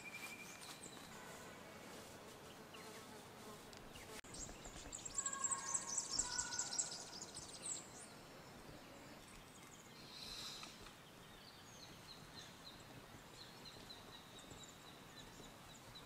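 Quiet forest ambience with faint bird calls: a cluster of short whistled and chirping notes a few seconds in, then a thin, high repeated note that carries on faintly near the end.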